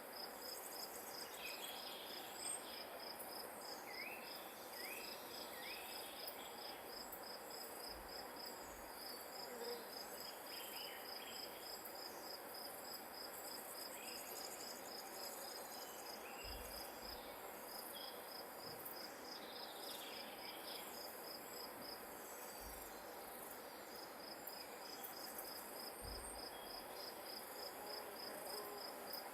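Field insect, cricket-like, trilling steadily in even, rapid pulses, with a few short rising chirps and occasional faint low bumps.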